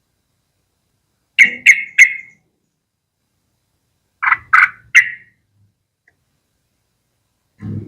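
Yellow-vented bulbul calling: two quick bursts of three short, loud notes each, about three seconds apart.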